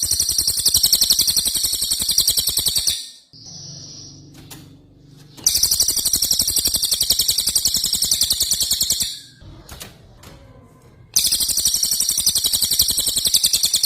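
Songbird's 'rol tembak' song: a very fast, machine-gun-like rolling trill of high notes, given in three long runs of about three to four seconds each, with short pauses between them.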